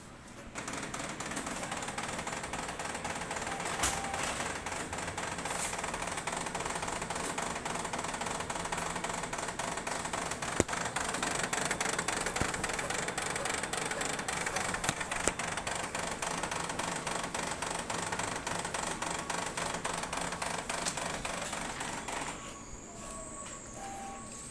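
Xerox WorkCentre 7855 colour copier running with a loud, rapid crackling clatter that starts about half a second in and stops near the end. This is the cracking-noise fault that the uploader ties to toner or drum cartridges that are badly seated or hard to pull, to be cured by reseating or replacing them.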